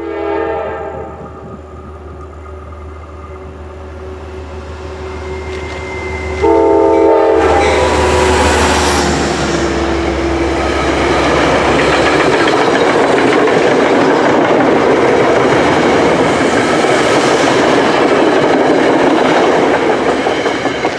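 Passenger train's horn sounding a chord of several notes as the train approaches, fainter at first, then a short loud blast about six seconds in. The train then passes close by in a steady roar of wheels on rail, with a low engine rumble that fades about halfway through, dropping away near the end as the last car clears.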